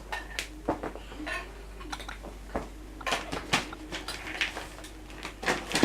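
Boxes and packs of fireworks being handled: a scattering of light knocks, taps and rustles.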